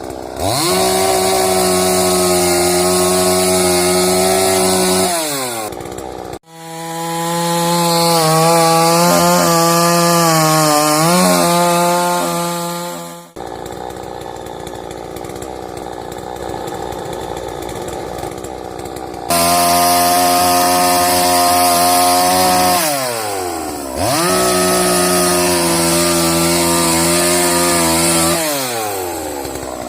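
Petrol chainsaw cutting a rotten fallen tree trunk. It is held at full throttle for several seconds at a time, its pitch wavering and sagging under load, and it drops back to idle between cuts. The sound changes abruptly a few times.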